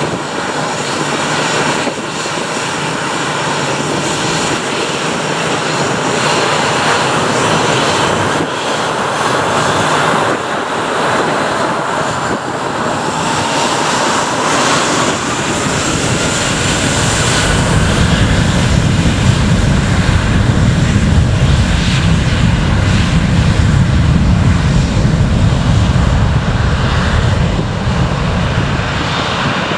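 Airplane engines at takeoff power during a departure: a loud, steady roar with a whine that glides in pitch near the middle, then a deep low rumble that builds in the second half.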